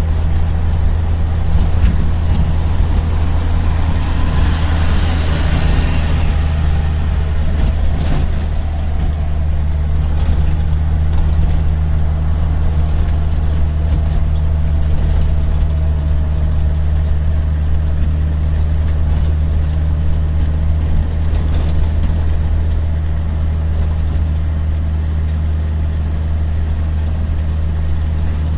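A motor vehicle driving along a road: a steady low engine drone with road noise.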